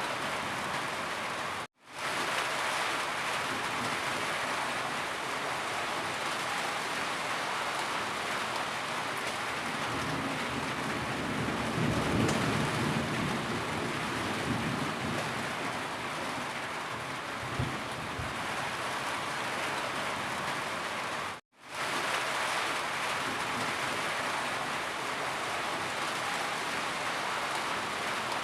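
Steady heavy rain falling, a dense even hiss of drops with a little more low rumble partway through. It cuts out completely for an instant twice, about two seconds in and again about two-thirds of the way through.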